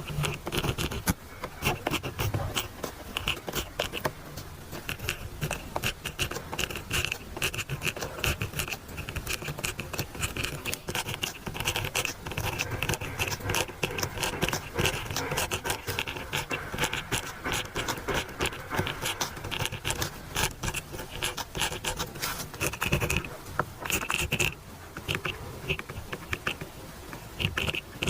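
Pen scratching on paper during handwriting: a continuous stream of short, irregular scratches and strokes.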